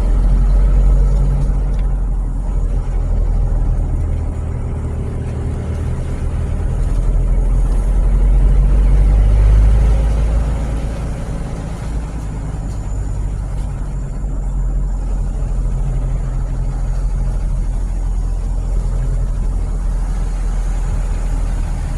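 Car running along a road, heard from inside the cabin: a steady low engine and road rumble with tyre hiss, swelling louder twice.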